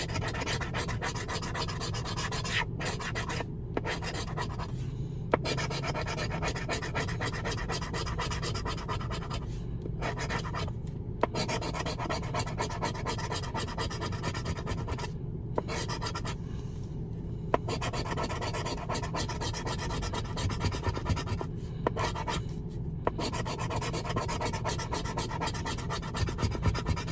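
Scratching the coating off a lottery scratch-off ticket: a continuous rasping scrape broken by several brief pauses, with a few sharp clicks.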